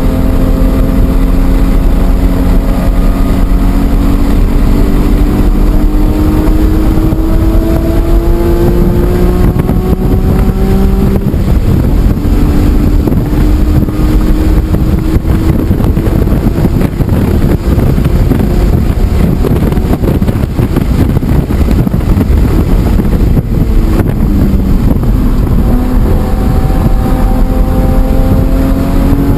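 BMW E46 M3's 3.2-litre straight-six engine running hard on track, its note climbing slowly for about ten seconds, then holding, dipping briefly near the end and climbing again. Heavy wind buffeting on the microphone under the engine.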